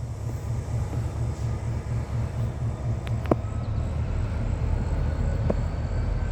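Diesel freight locomotive's engine running steadily with a low, pulsing rumble, a short click sounding a little past the middle.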